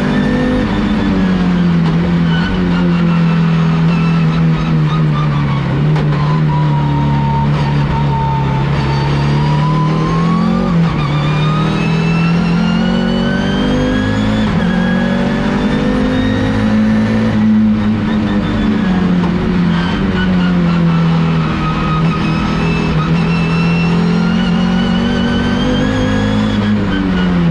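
Audi S2-R race car's turbocharged five-cylinder engine running hard at racing speed. Its note sinks slowly over several seconds, then climbs, dips briefly and climbs again.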